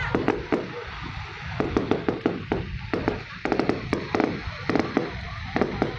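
Fireworks going off: rapid clusters of sharp crackling pops, bunch after bunch, over a low rumble.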